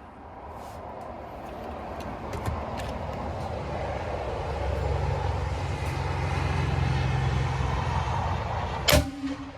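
A motor vehicle's engine, growing steadily louder as it comes nearer, then a single sharp crack near the end, after which the sound drops off suddenly.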